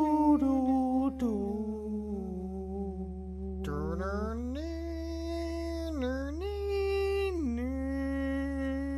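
A single voice hums a slow melody in long held notes that step up and down in pitch, standing in for the film's music score. A steady low hum runs underneath.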